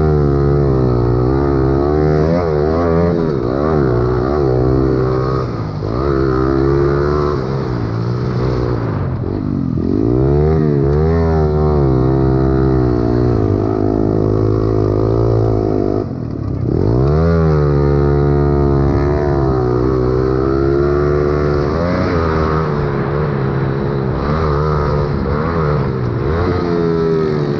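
Pit bike engine under race throttle, the revs rising and falling over and over with the throttle and gear changes. Twice the revs fall low and then climb sharply again.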